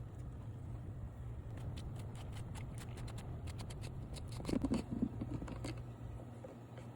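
Light clicks and scrapes of plastic engine-bay parts being handled, with a cluster of louder knocks a little past halfway, over a steady low hum.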